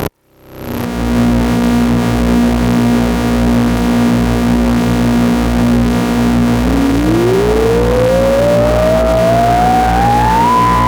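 SxLab Fortress experimental synthesizer playing a patch. A quick swell opens into a dense, buzzy drone with a pulsing low end. A clear tone over it holds steady, then slides upward from about two-thirds of the way in and settles on a higher pitch near the end.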